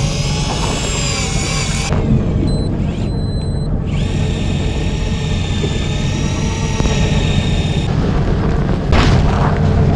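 Steady low rumble of a boat's engine, with background music of held tones over it. The sound changes abruptly about 2, 4, 8 and 9 seconds in.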